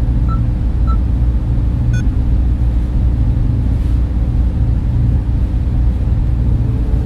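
Data center server room noise: a steady, loud, low hum of server fans and cooling equipment. Two faint short beeps come in the first second and a brief click about two seconds in.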